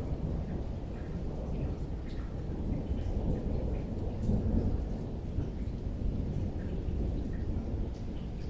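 Rainstorm with low rolling thunder rumbling steadily, swelling a little about halfway through, and scattered raindrops ticking over it.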